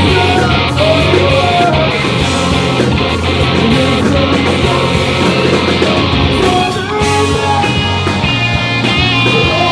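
Pop-punk band playing live, loud with electric guitars and drums. About seven seconds in the low end drops away and ringing guitar notes carry on.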